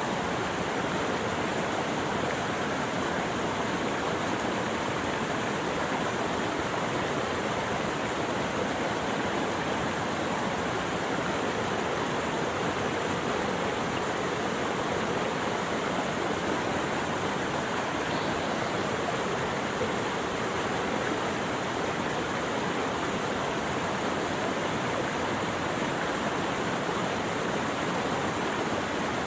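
Steady, continuous rushing of flowing water, like a stream or small waterfall.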